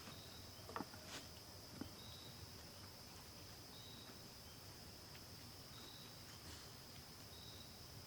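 Faint, steady high-pitched insect hum, with a short chirp every couple of seconds and a few light knocks in the first two seconds.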